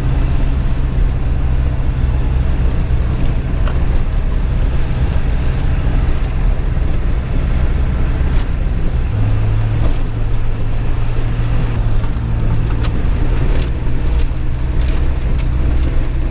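Truck engine running under load as the truck camper climbs a steep dirt road, heard from inside the cab with road noise and light rattles; the engine note drops slightly about nine seconds in.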